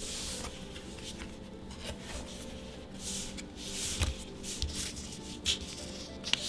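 Magic: The Gathering trading cards being handled: soft rustling and sliding of cards against each other, with a few sharp taps or flicks, the clearest about four and five and a half seconds in.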